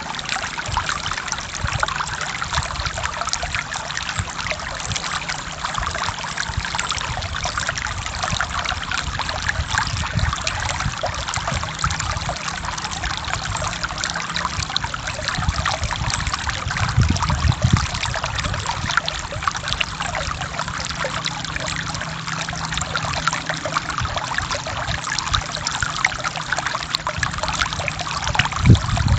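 Forest stream flowing and trickling over rocks: a steady rush of water dotted with small splashes, with a low rumble underneath that swells for a few seconds in the middle.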